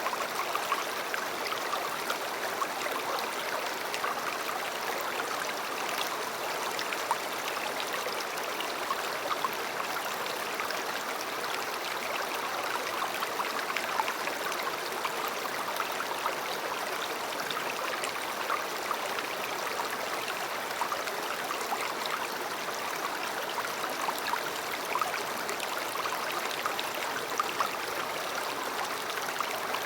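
River water flowing: a steady rush with many small splashes and gurgles.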